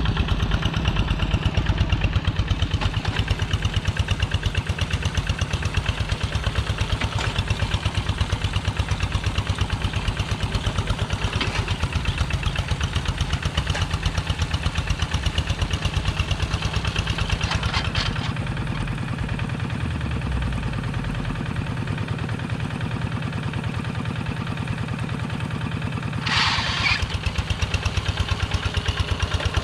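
The diesel engine of a Kubota two-wheel walking tractor running steadily with a fast, even chug. It settles slightly lower for several seconds past the middle, then a short hissy burst sounds near the end.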